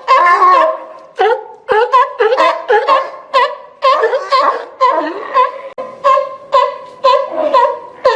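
Seal calling in a rapid run of short, pitched barks, about two a second.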